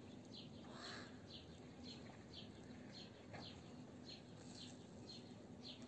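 A small bird chirping faintly, one short high chirp repeated evenly about twice a second, over a faint low steady hum.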